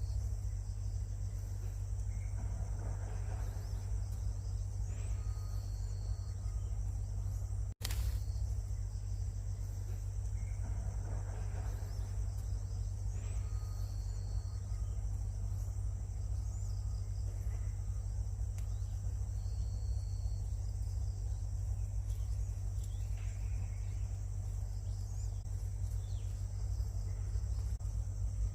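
Steady insect chorus, a continuous high-pitched buzz, over a constant low rumble. A few short, level high notes break in now and then, and there is a sudden brief dropout about eight seconds in.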